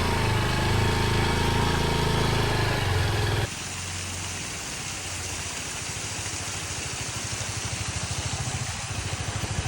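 Honda XR150L single-cylinder four-stroke motorcycle engine running at low speed. About a third of the way in the sound drops abruptly to a quieter, rougher engine sound.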